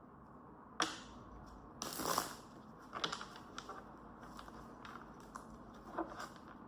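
Tarot cards being handled: a sharp tap about a second in, a brief rustle of cards sliding about two seconds in, then a few soft taps as cards are pulled and laid down.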